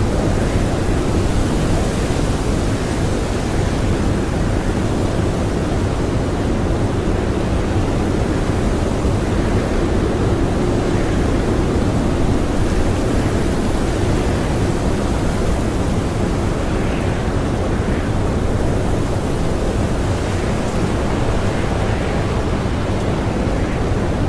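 Blizzard wind blowing hard and steadily, a dense even rush with no distinct gusts or breaks.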